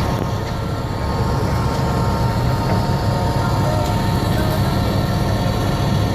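Heavy diesel construction machinery running steadily, a continuous low rumble with a faint steady whine above it.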